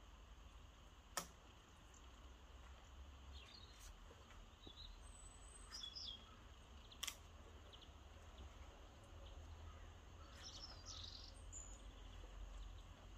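Near silence with a few faint bird chirps, broken by two sharp clicks, one about a second in and one about seven seconds in.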